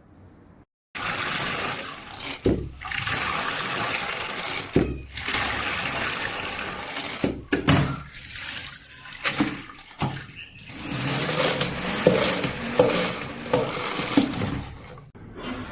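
Water gushing and splashing into a plastic spin-mop bucket, with a few short breaks and several knocks. It starts suddenly about a second in and stops just before the end.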